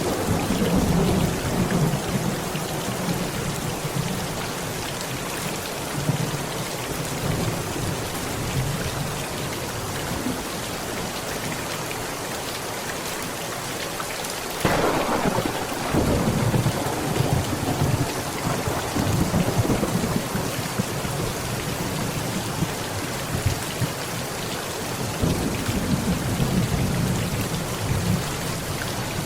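Heavy rain pattering steadily on a tent, with thunder. There are low rumbles in the first few seconds, a sharp thunderclap about halfway through followed by several seconds of rolling rumble, and another rumble near the end.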